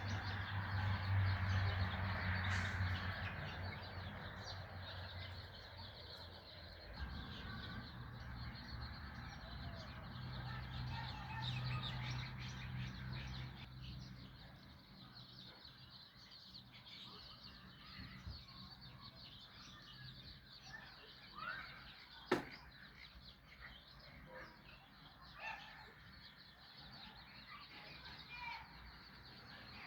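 Small birds chirping and twittering intermittently. A low steady hum runs under them for about the first half and then fades, and there is a single sharp click about two-thirds of the way through.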